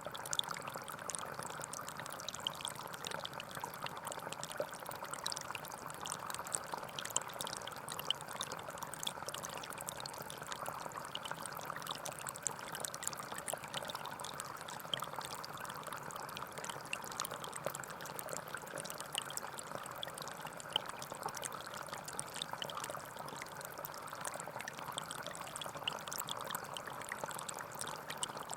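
Small forest stream flowing over stones, a steady burbling of water with fine splashes and no let-up.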